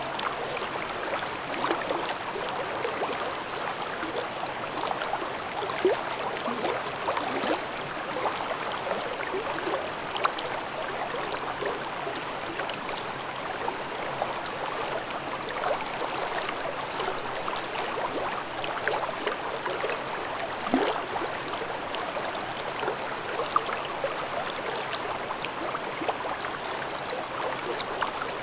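Mountain stream babbling over rocks: a steady rush of water with constant gurgling and splashing, a few splashes standing out louder.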